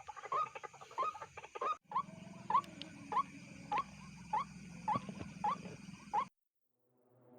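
White-breasted waterhen calling: a steady series of short, upward-flicking notes, about one and a half per second, over a steady high hiss. The series breaks off briefly about two seconds in and stops about six seconds in.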